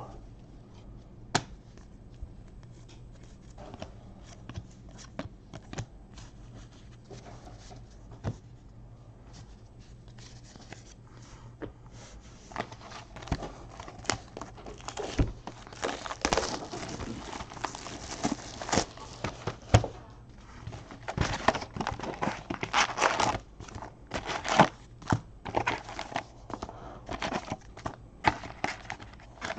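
Trading card packs being torn open, wrappers tearing and crinkling in repeated bursts, with light clicks of cards being handled; the tearing grows busier about halfway through.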